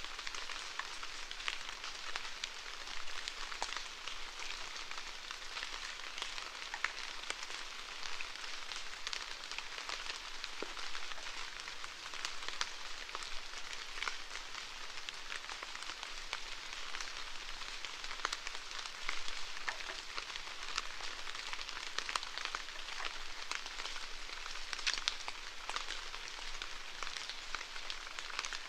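Steady rain falling, with many individual drops ticking sharply against a constant hiss.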